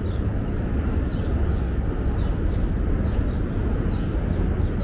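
Small birds chirping over and over, short quick downward chirps, over a steady low rumble of outdoor city ambience.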